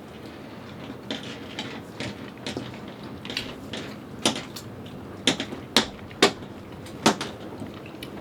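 Cutlery clinking on plates as people eat: scattered sharp clinks, the loudest ones near the end.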